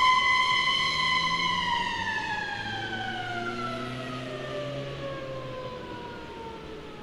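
Police car siren holding a steady high wail, then winding down, its pitch sliding slowly lower and fading over several seconds.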